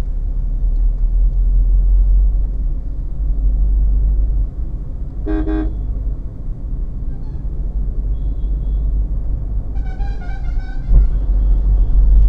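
Low road and engine rumble heard from inside a moving car in traffic. A vehicle horn gives a short toot about five seconds in, and a longer, wavering horn sounds about ten seconds in.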